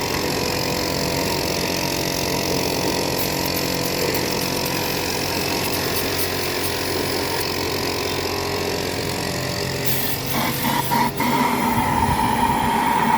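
Compressed-air blow gun hissing steadily as the engine bay is blown clean of dust, over a steady mechanical hum. About ten seconds in, a higher steady whistle joins, with a few sharp clicks.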